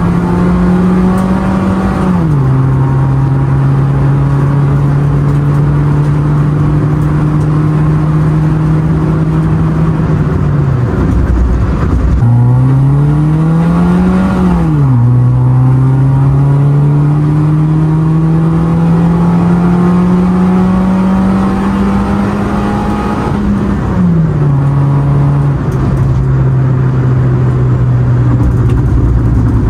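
Perodua Myvi's four-cylinder engine heard from inside the cabin through a Max Racing competition-spec full exhaust (4-1 extractor, centre pipe with resonator). Its drone climbs slowly as the car accelerates and drops sharply at automatic-gearbox upshifts about two seconds in, midway and about twenty-four seconds in. Around ten seconds in the pitch falls away as the car eases off, then climbs again.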